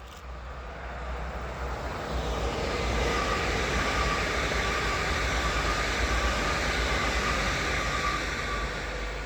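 A train passing on electrified main line track. It grows louder over the first few seconds, holds for several seconds with a steady whine over the rumble, and begins to fade near the end.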